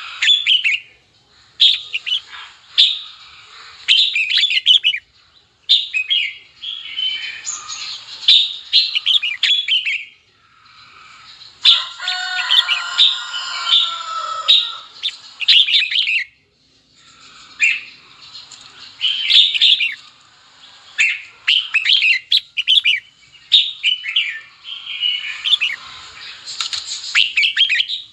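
Red-whiskered bulbul song: quick chirping phrases of one to a few seconds, separated by short pauses, one fuller, lower-reaching phrase about halfway through. It is the bulbul's calling song used to fire up other bulbuls and call in wild ones.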